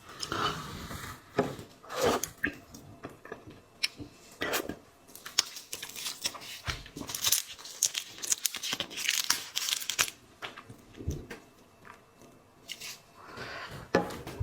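Close-miked eating sounds: seafood shells cracking and being peeled apart, with crunching and chewing. There are many sharp cracks and short rustling tears, thickest in the middle.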